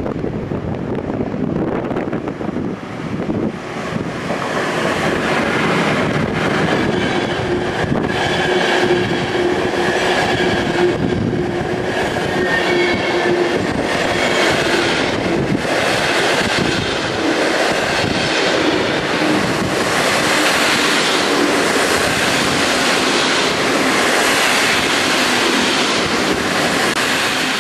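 A train moving on the rails close by: a loud, steady rumble of wheels that swells a few seconds in, with a faint whine or squeal held over it.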